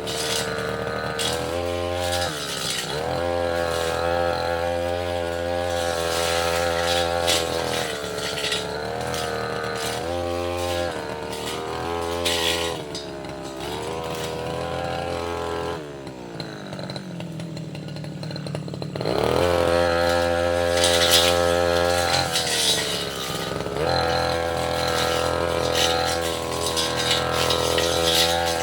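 Two-stroke brush cutter engine (Tasco 33 Pro) revving hard and easing off again and again as it cuts. About two-thirds of the way through it drops to idle for a few seconds, then revs back up.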